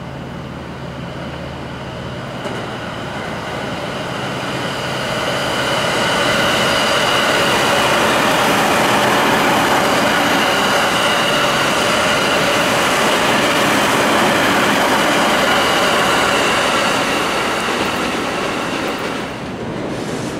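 JR E231 series electric commuter train passing at speed: wheels running on the rails with a steady high whine over the rumble. It builds over the first few seconds, is loudest for about ten seconds as the cars go by, then eases off near the end.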